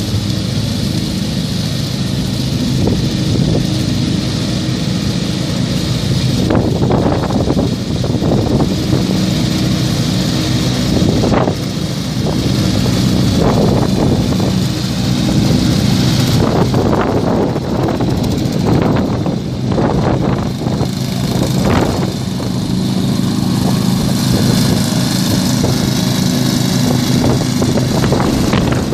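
Small lawn tractor engine running steadily at working speed, with louder, rougher surges every few seconds through the middle stretch.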